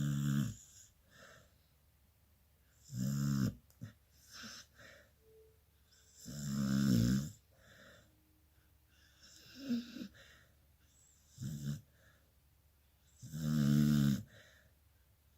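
A beagle snoring in its sleep: four loud snores, the first three about three seconds apart, then a longer pause before the fourth, with softer snorts and breaths between them.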